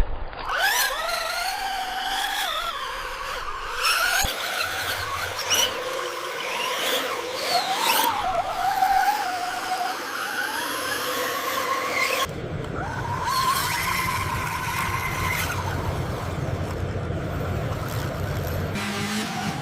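Small electric motors of radio-controlled vehicles whining, the pitch rising and falling as they speed up and slow down. About twelve seconds in, the sound changes to a steadier whine over a low hum.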